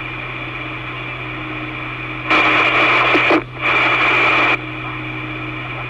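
Two-way railway radio channel with a steady hiss and hum, broken about two seconds in by two loud bursts of radio static, each about a second long, with a short gap between them.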